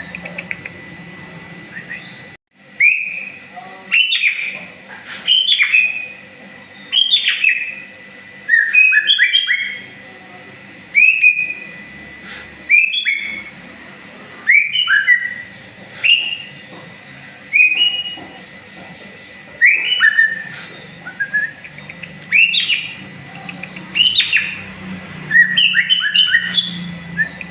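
White-rumped shama singing short, slurred whistled phrases, one about every one and a half to two seconds.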